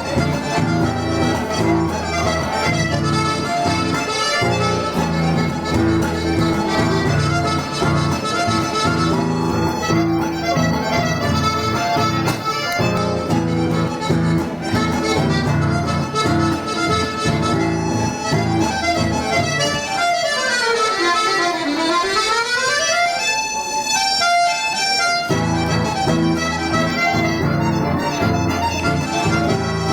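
Gaita ponto, a diatonic button accordion, playing a lively instrumental gaúcho tune with bass and chords. About twenty seconds in the bass drops out for a quick run of treble notes that falls and climbs back up, then the full bass-and-chord accompaniment returns.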